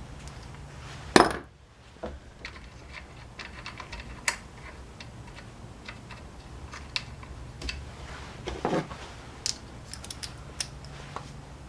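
Hand tools and small metal parts clicking and clinking during hands-on work on a trimmer, with one sharper knock about a second in and irregular light taps after it.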